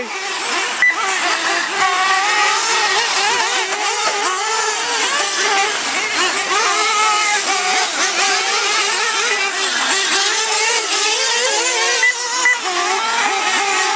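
Several radio-controlled monster trucks and truggies racing together. Their small engines rev up and drop back over and over, the pitches overlapping and crossing.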